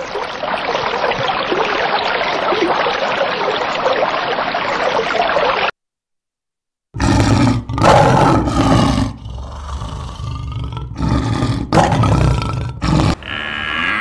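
A steady rushing noise for about six seconds cuts off abruptly. After a second of silence comes a run of loud, harsh animal calls broken into short bursts. Near the end a drawn-out lowing call with a falling pitch begins.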